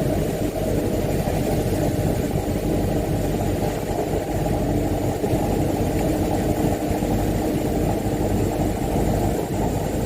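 Mitsubishi Canter 125HD dump truck's diesel engine running steadily, a low, even drone.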